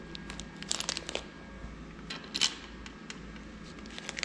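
Scattered light metallic clicks and taps of small hardware being handled, likely the stainless valve cover bolts, in a cluster about a second in and again near the middle, over a low steady hum.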